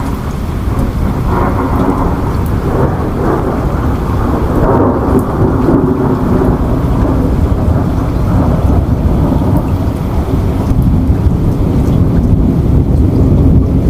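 Steady rain with a deep rumble of thunder that grows louder across the stretch.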